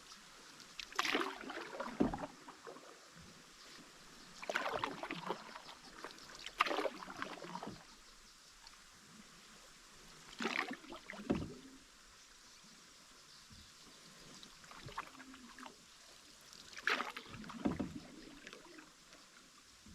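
Water splashing and knocking against a canoe's hull in about six separate bursts, a few seconds apart, over a faint steady background.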